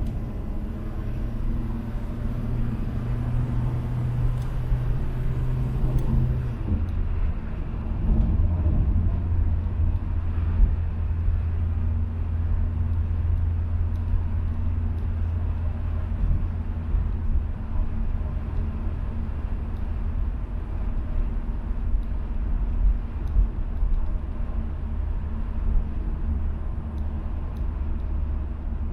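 Peugeot 505 GTD's four-cylinder turbodiesel running with a steady low rumble as the car drives; the engine note drops about six seconds in and then holds steady.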